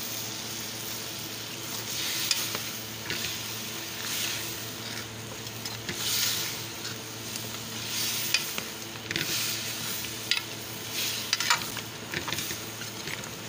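Chicken feet sizzling in oil in a metal pot while a metal spoon stirs them through freshly added tomato paste, scraping the pan in strokes, with a few sharp clinks of spoon on pot.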